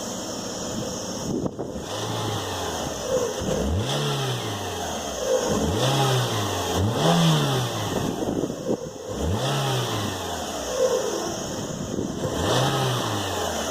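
Renault Clio Sport 172's 2.0-litre four-cylinder engine being blipped about five times, revs rising and falling back each time. It carries a knocking that comes in around 3,000 rpm, which the owner suspects is a worn bearing or a failed lifter.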